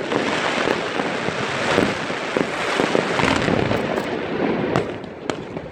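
Fireworks bursting overhead, a dense run of crackling pops and bangs that thins out for a moment near the end.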